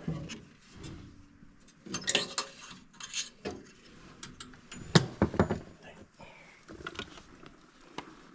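Irregular metallic clicks, taps and scrapes of a screwdriver and loose parts being worked on a gas furnace, with one sharp click about five seconds in.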